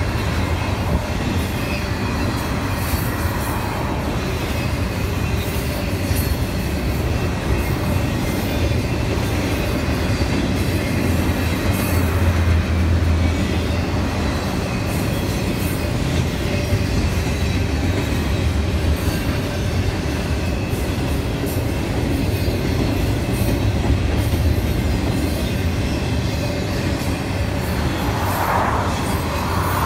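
Double-stack container freight train rolling past, a steady low rumble of wheels on rail that goes on without a break.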